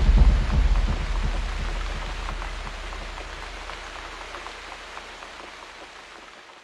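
Falling water hissing with many small scattered drops, over a low rumble that dies away in the first two seconds; the whole sound fades out steadily toward the end.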